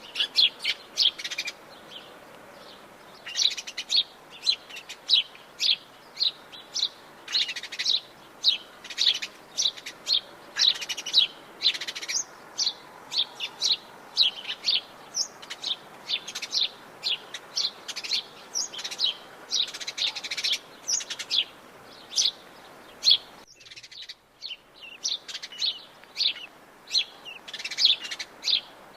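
Atlantic Forest birds chirping in a dense chorus of quick, short, high notes, call after call with hardly a pause. The faint background hiss briefly drops out about two-thirds of the way in.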